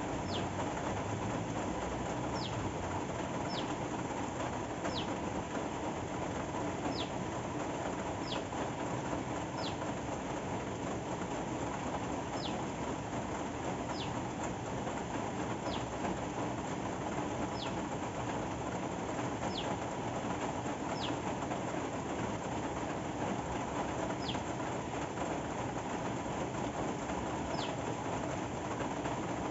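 Steady rain falling. Over it a small bird repeats a short, high call that drops sharply in pitch, every one to three seconds.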